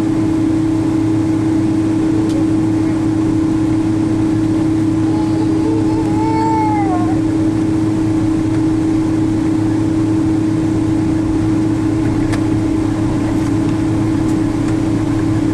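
Steady cabin drone inside a Boeing 777-200 with its engines running, a constant hum under an even rush of noise. About six seconds in, a short high cry rises and falls in pitch over it.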